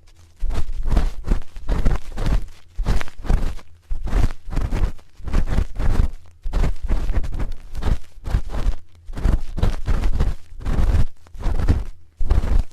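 Spoon scraping and rubbing in and around an ear microphone in repeated close strokes, roughly one or two a second, each a scratchy rustle with a heavy low rumble of contact.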